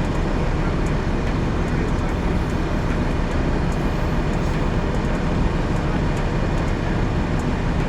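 Steady low rumble of idling vehicle engines mixed with the hiss of falling rain, unchanging throughout.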